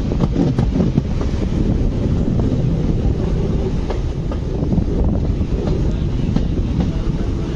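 ICF passenger coach running on the track, heard from its open door: a steady low rumble with irregular clicks from the wheels, and wind buffeting the microphone.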